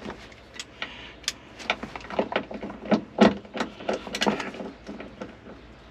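Irregular clicks, clinks and knocks of seat belt hardware and bolts being handled and fitted inside a car, with a few louder knocks in the middle.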